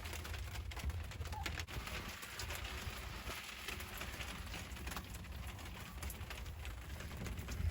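Steady rain falling, an even hiss full of small drop ticks, with a low rumble underneath.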